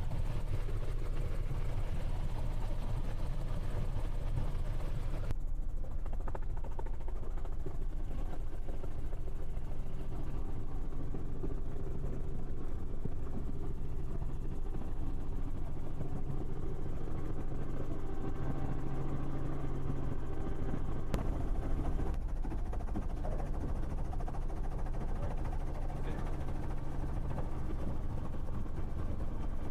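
Helicopter engine and rotor drone, a steady low hum; a higher hiss on top drops away about five seconds in.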